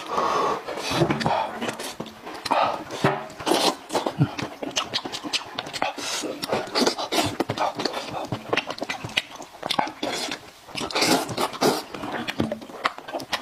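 Close-miked eating sounds: chewing, lip smacking and slurping, with many short, irregular wet clicks.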